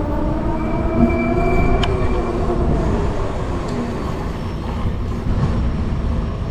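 Juiced RipRacer electric bike's rear hub motor whining, rising gently in pitch as the bike accelerates, over steady wind rumble on the microphone. A single sharp click about two seconds in.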